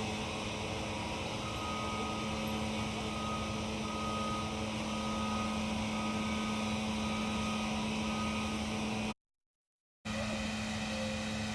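Steady mechanical hum with a strong low drone and a hiss, broken by a complete dropout lasting about a second near the end.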